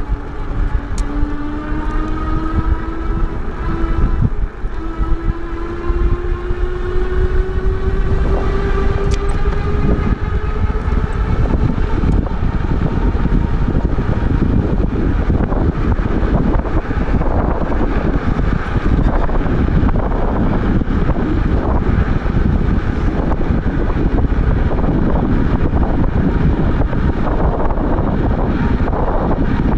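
Electric bike motor whining, rising slowly in pitch over the first ten seconds or so as the bike picks up speed. After that, steady wind rush on the microphone and road noise take over.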